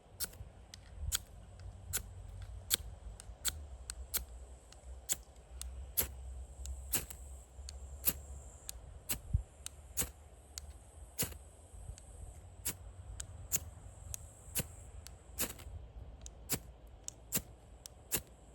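Open wood fire crackling: irregular sharp pops and snaps, about two a second, over a low rumble.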